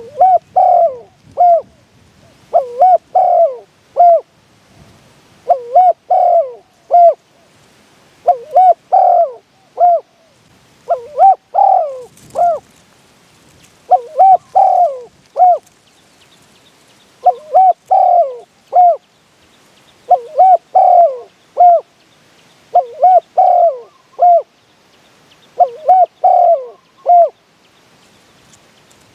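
Spotted dove cooing: a short phrase of three or four coos, repeated about every two and a half to three seconds, some ten times.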